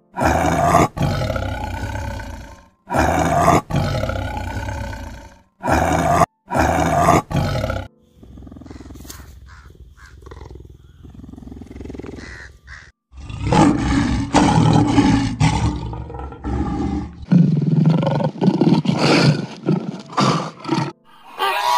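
Big cats roaring: a tiger gives a string of loud roars, each about a second long. After a quieter stretch in the middle, lions roar and growl loudly to the end.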